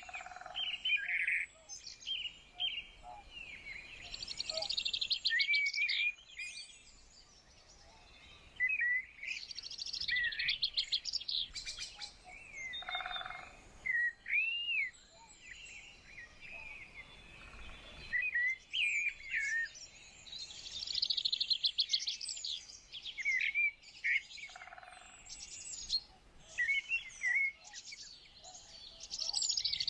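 Several songbirds singing and chirping, with short whistled notes and bursts of fast trills that come back every several seconds.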